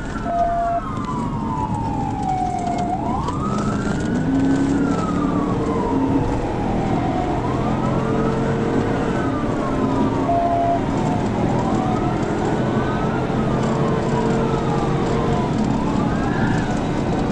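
Police cruiser siren wailing, its pitch rising and falling slowly every two to three seconds, over steady road noise.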